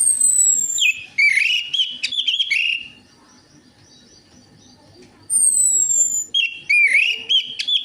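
Orange-headed thrush (anis merah) singing two song phrases. Each phrase opens with a high, thin downward-sliding whistle and runs into a quick string of warbled notes lower in pitch. The second phrase starts about five seconds in.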